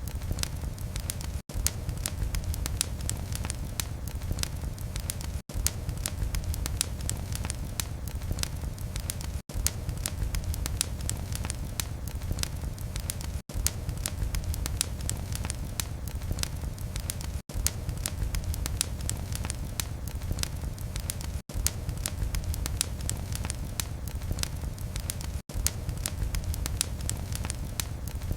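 Wood fire crackling in a fireplace: a steady low rumble and hiss of flames with dense, sharp crackles and pops. The sound cuts out very briefly about every four seconds.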